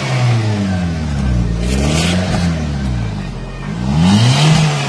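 First-generation Swift Dzire's 1.3-litre four-cylinder petrol engine being revved with the bonnet closed: the revs fall away, climb about two seconds in, drop, then climb and fall again near the end. The engine stays fairly quiet under the revving.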